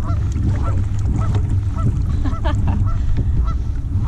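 A flock of birds calling over and over, many short honking calls overlapping, over a steady low rumble.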